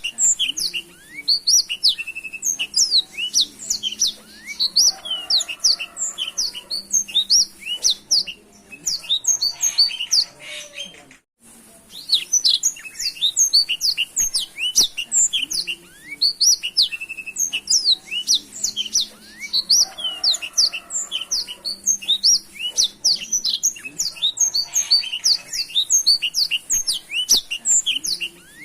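Black-throated canary (blackthroat) singing a fast, continuous twittering song of rapid high chirps and trills, broken by one short pause about eleven seconds in.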